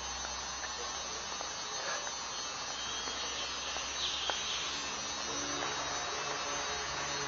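Steady hiss of room noise with a low hum that fades out about halfway through, and faint steady tones coming in near the end.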